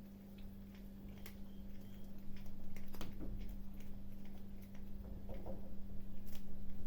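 Kittens eating: irregular small clicks and crunches of chewing, busier and louder from about two seconds in, over a steady low hum.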